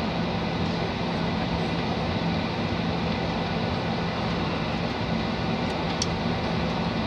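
Steady cabin noise of a Boeing 737-800 with its CFM56 engines running, heard from inside the passenger cabin: an even rush with a low steady hum. A short high tick about six seconds in.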